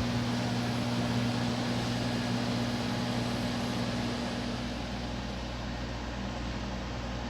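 Vintage Crosley air conditioner running: a steady low electric hum under an even rush of air from its fan.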